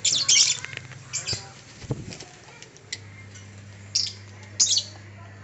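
Pet birds giving about six short, loud, harsh squawks and calls, with a low steady hum underneath from about three seconds in.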